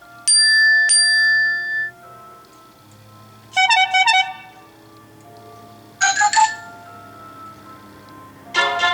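A series of iOS 7 preset alert tones played on an iPod touch, each short and separated by pauses. First comes a bell-like chime struck twice, then a quick run of bright notes, another brief run, and a busier melody that starts near the end.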